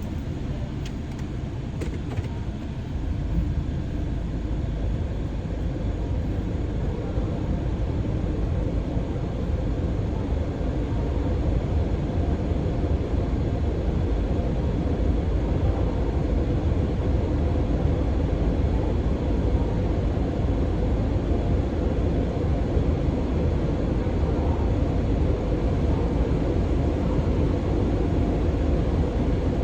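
Steady low vehicle rumble, building a little over the first several seconds and then holding even.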